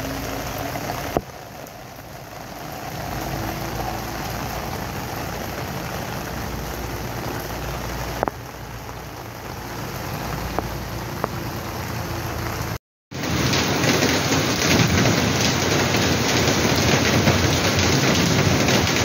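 Heavy monsoon rain pouring steadily onto flooded streets, a dense hiss of rain striking standing water. About two-thirds of the way through the sound drops out for a moment and returns louder, with a few sharp clicks earlier on.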